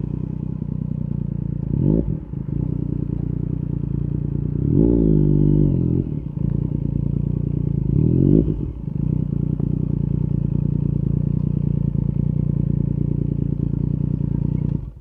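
Yamaha MT-09 SP's three-cylinder engine running through an Akrapovic carbon Racing-Line exhaust with the dB killer removed, riding at steady revs. The revs rise briefly three times, about two, five and eight seconds in, the one about five seconds in held for about a second.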